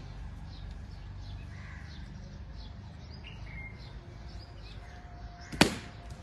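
Small birds chirping in the background over a steady outdoor hum, and one loud, sharp knock about five and a half seconds in, during a backyard game of cricket.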